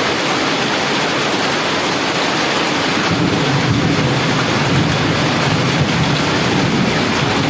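Heavy rain falling steadily. A low engine hum from the truck joins about three seconds in.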